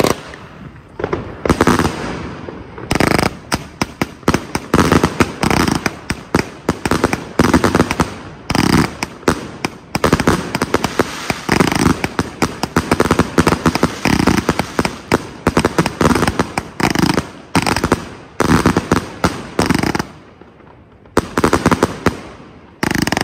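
Consumer firework cake firing a long, rapid volley of shots and bursts, with a short lull about 20 seconds in before a final burst of shots.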